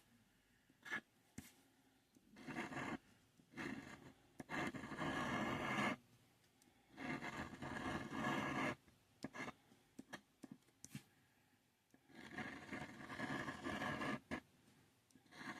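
Scratch-off lottery ticket being scratched, the coating rubbed away in several bouts of scraping, each one to two seconds long, with short pauses between them.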